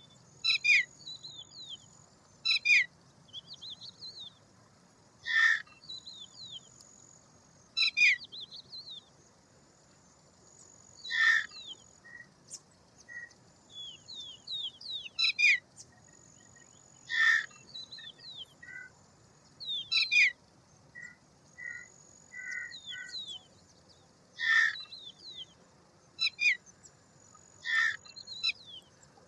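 Birds calling: loud, harsh calls come every two to three seconds, with quick runs of high, falling chirps between them and a faint, steady, high whine behind.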